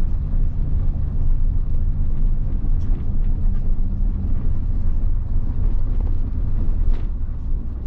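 1990 Mitsubishi Fuso bus's 7.5-litre diesel engine running steadily while the bus is under way.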